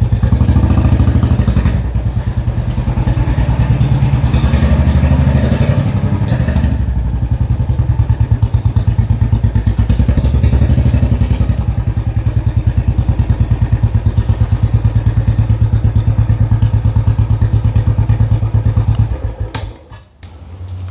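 Royal Enfield 500's single-cylinder engine running with an even thumping beat. The revs rise in two stretches within the first seven seconds, and the sound drops away sharply about a second before the end.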